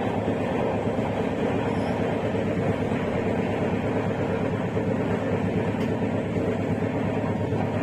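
Passenger train running at speed: a steady, dense low rumble of wheels and carriage.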